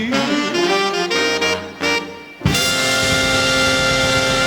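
Swing big band horn section (saxophones, trumpets, trombones) playing the tag of a tune. After a brief dip, the full band hits a loud closing chord about two and a half seconds in and holds it.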